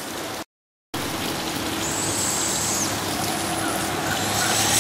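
Steady trickling rush of running water. The sound cuts out completely for about half a second just after the start, and a brief high-pitched buzz comes in about two seconds in.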